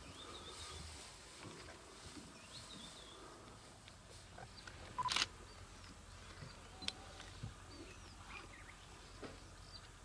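Quiet bush ambience with faint, scattered bird chirps. One short, harsh sound about five seconds in is the loudest thing heard.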